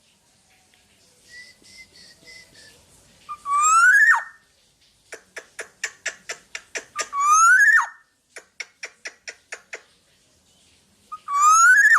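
Black-naped oriole calling: three loud whistled notes, each rising over about a second, with runs of short sharp clicks at about five a second between them.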